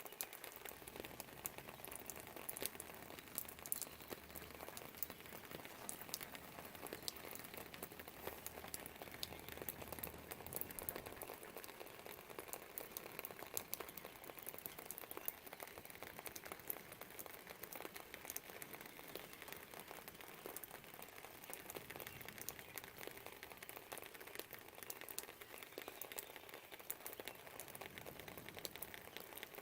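Steady rain falling outside a window, a dense patter of fine drops ticking on surfaces. A faint low rumble sits under it for the first ten seconds or so.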